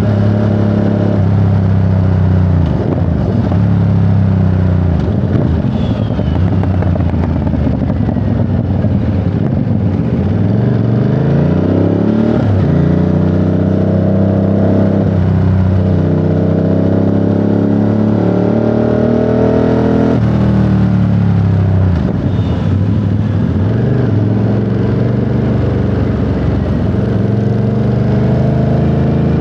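Ducati Monster 937's 937 cc Testastretta V-twin on the move, pulling up through the gears and easing off, its pitch climbing and dropping several times with short breaks at the shifts.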